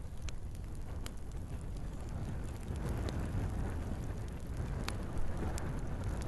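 Log fire burning in a fireplace: a steady low rumble of flames, with a handful of sharp crackles and pops from the wood scattered through it.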